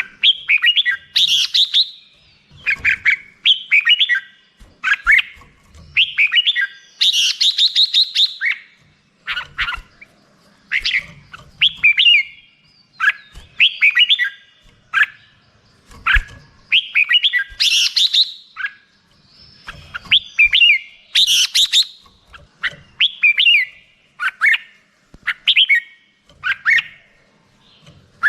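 Red-whiskered bulbul singing: short, bright whistled phrases repeated about once a second, with brief pauses between.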